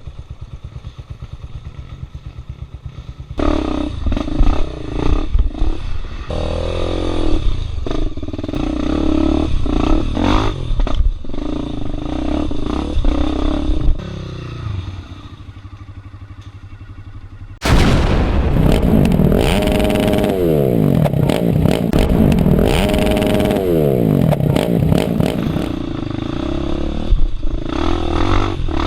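Off-road motorcycle engine on a rocky trail: a low, even idle at first, then uneven revving with clattering and scraping knocks. About two-thirds of the way in it comes in suddenly louder, the revs swinging up and down again and again.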